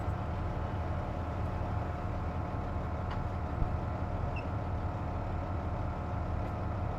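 Hino Rainbow KC-JP250NTN city bus heard from inside the cabin, its diesel engine running steadily with a constant low rumble and a steady whine on top. The uploader notes that the bus makes an abnormal noise when its air conditioning is on.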